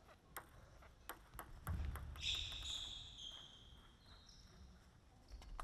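Celluloid-type plastic table tennis ball making a series of faint, sharp clicks as it bounces on the table and is struck by rubber-faced paddles. From about two seconds in there are a few short, high-pitched squeaks.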